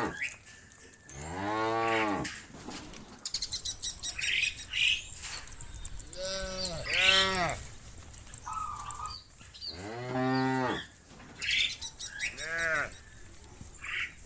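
Cattle mooing repeatedly: about five long moos, each rising then falling in pitch, two of them overlapping. Rapid clicking can be heard between some of the calls.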